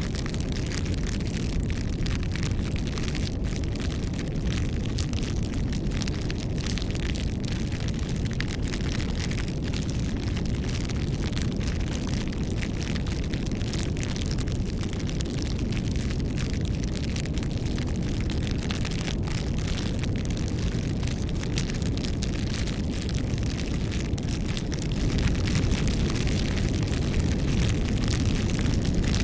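A wood bonfire burning, with a steady low rush of flame under constant small crackles and pops from the burning wood.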